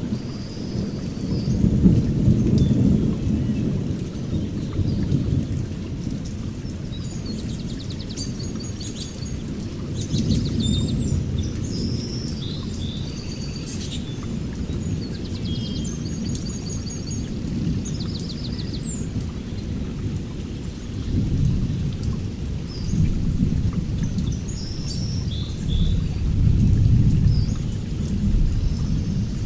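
Deep rumbling that swells and fades every few seconds, with small birds chirping and twittering over it throughout.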